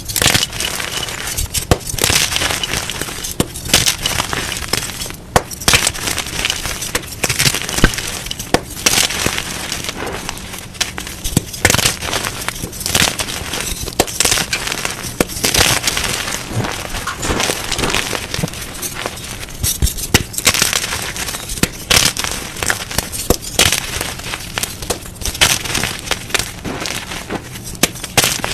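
Blocks of gym chalk being crushed and squeezed, a dense run of crunching and crackling with sharper crunches every second or so.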